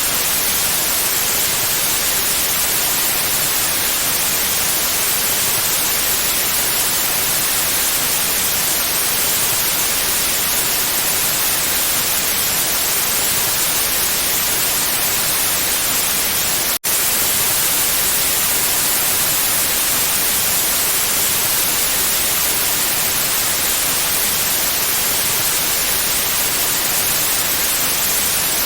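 Steady white noise: an even, unchanging hiss across the whole range of pitch. It cuts out for an instant about two-thirds of the way through, then carries on unchanged.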